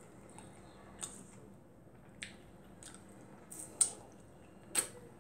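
Close-up wet eating sounds while chewing barbecued rib meat: scattered lip smacks and squishy mouth clicks, about half a dozen, the loudest in the second half.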